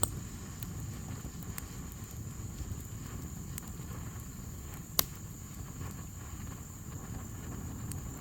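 Outdoor woodland ambience: insects droning at a steady high pitch over a low rumble of wind on the microphone, with a few sharp clicks, the loudest about five seconds in.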